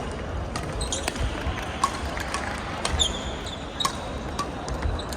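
Sneaker squeaks and scattered sharp knocks from players moving on an indoor court floor during a singles match, with short high squeaks about three seconds in.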